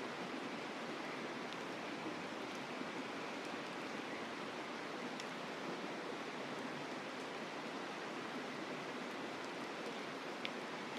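Mountain river flowing steadily, with a few faint, sharp crackles from a campfire, the clearest about ten seconds in.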